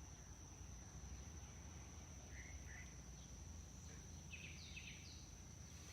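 Faint outdoor ambience: a steady high insect drone, with a few faint bird chirps about two and a half and four and a half seconds in.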